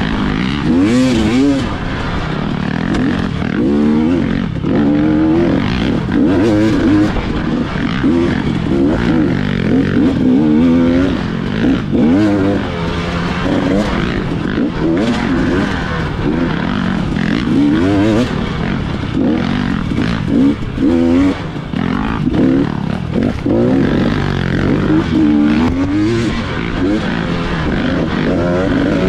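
Dirt bike engine revving up and falling back over and over as it rides a trail, its pitch rising and dropping every second or two, with scattered knocks and rattles from the rough ground.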